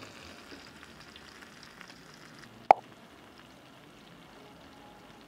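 Egg omelette frying in oil in a pan, a quiet steady sizzle, with one sharp knock about halfway through.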